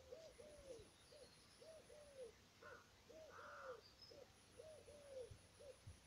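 Faint low hooting calls of a bird, short arched notes repeated in quick groups of two or three, about a group a second, with a few faint high chirps from other birds.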